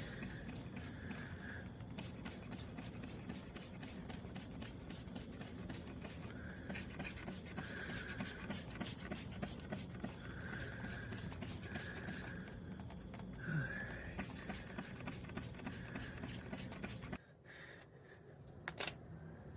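Hand trigger spray bottle of degreaser being pumped over and over, a quick steady run of clicks and spurts several times a second, stopping abruptly near the end.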